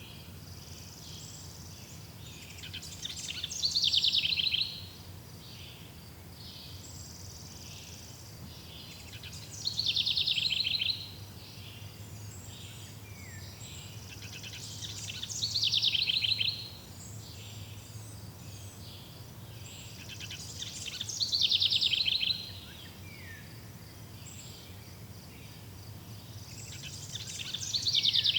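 A songbird singing the same short phrase about every six seconds, five times: a quick run of high notes that grows louder and stops abruptly. A faint steady low background of forest ambience lies under it.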